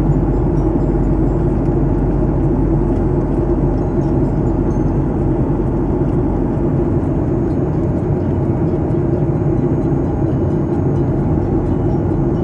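Airliner cabin noise: a steady, loud drone of engines and rushing air heard from inside the passenger cabin.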